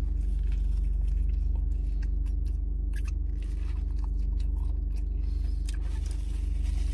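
A person biting into and chewing a burger close to the microphone, with many small wet clicks and crackles, over a steady low hum.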